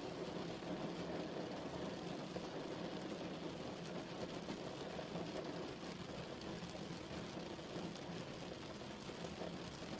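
Steady rainfall: an even hiss of rain on a surface with scattered drops.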